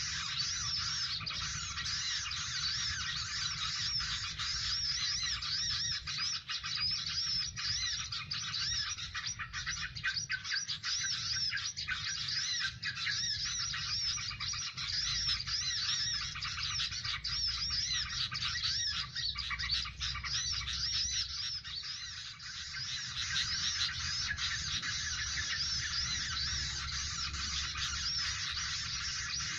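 Small birds chirping and twittering without a break, many quick, high, repeated call notes overlapping, over a faint low rumble.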